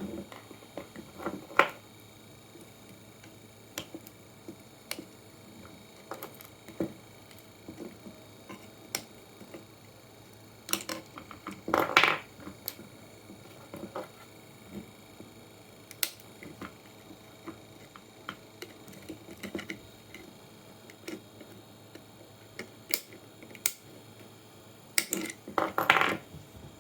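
Irregular clicks and knocks of small hard objects being handled, with busier clusters about twelve seconds in and near the end.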